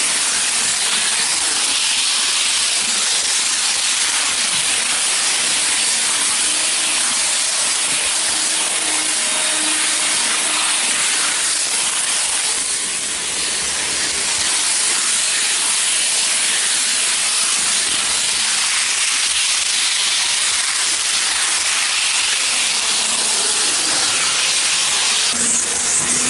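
N-gauge model train running at full speed, heard from a camera riding on the train: a continuous high hiss of wheels on the track and the motor. The hiss grows sharper about a second before the end.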